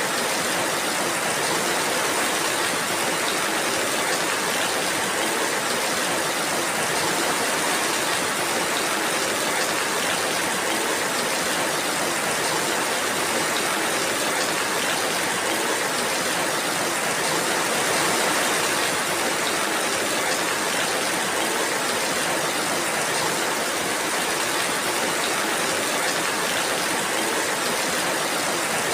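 Steady rainfall: an even, unbroken hiss of rain with no separate events.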